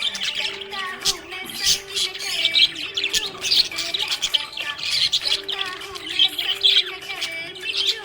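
Budgerigars chirping and chattering continuously, many short overlapping calls with no gaps.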